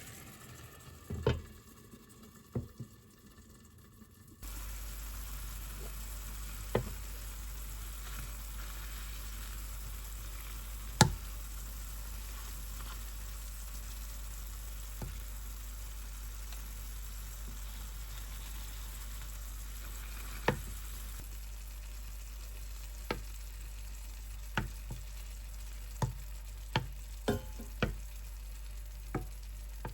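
Food frying in a pan: a steady sizzle that sets in suddenly about four seconds in, with scattered sharp clicks and knocks, more frequent near the end.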